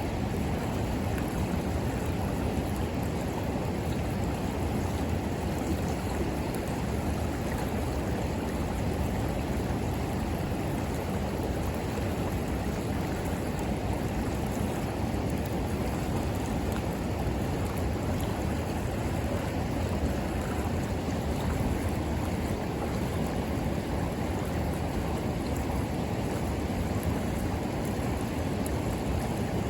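River water flowing steadily, a continuous low rushing.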